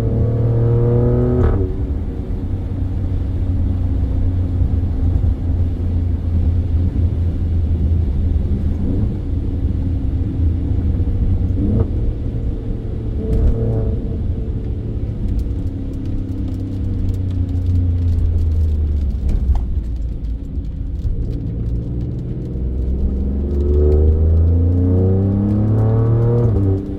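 Twin-turbo 90-degree V6 of an Alfa Romeo Stelvio Quadrifoglio, fitted with K&N air filters, driving with a steady low drone. It revs up with rising pitch at the start, drops as it shifts, and builds again through the last few seconds under acceleration.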